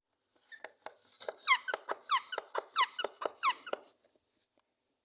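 Small green parrot giving a run of short squeaky chirps, each falling quickly in pitch, about two a second, mixed with light clicks.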